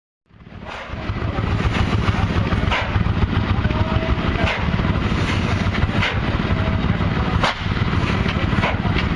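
Large old Sulzer slow-speed diesel engine running: a steady low rumble rising in over the first second, with a sharp knock from each slow beat roughly every second and a half.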